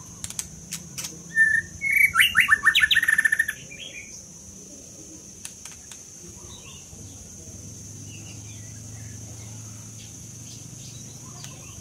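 White-rumped shama singing: one loud phrase of quick repeated notes, about two seconds long, starting a second and a half in, then only faint scattered notes.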